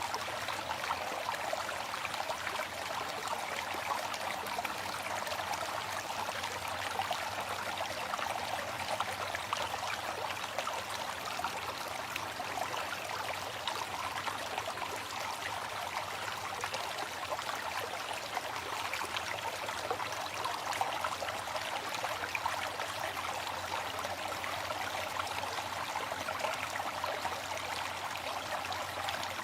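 Waterfall: a steady, unbroken rush of falling and splashing water, even in level throughout.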